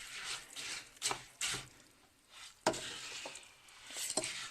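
A spoon stirring birdseed through melted lard in a pot, with a few separate scrapes and knocks against the pot, the sharpest nearly three seconds in.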